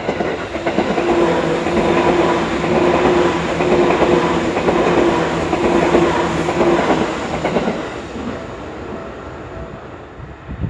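A yellow Seibu Railway electric commuter train passing close by: its running noise and wheel clatter swell up in the first second, stay loud with a steady motor hum for several seconds, then fade as the train moves away.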